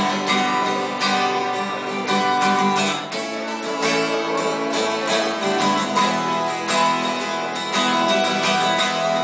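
Acoustic guitar strumming chords in a steady rhythm, an instrumental passage between the sung lines of a live song.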